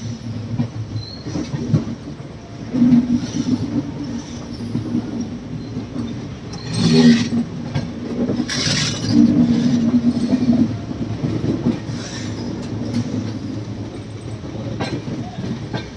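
Passenger train coaches running on track, heard from on board: a continuous rumble of wheels on rail with an uneven low hum, and two louder noisy bursts about seven and nine seconds in.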